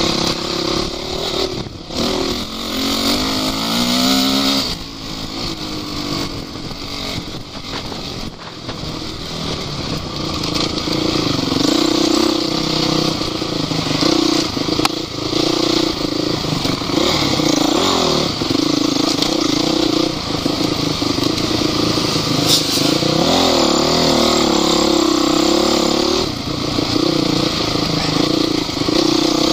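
Off-road vehicle engine running hard, its pitch rising and falling as it is revved, over a steady rush of noise with scattered knocks; it gets louder from about ten seconds in.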